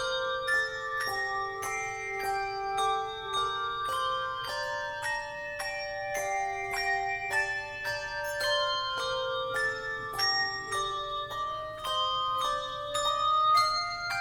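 Tuned bells playing a melody with chords: notes struck about twice a second and left to ring.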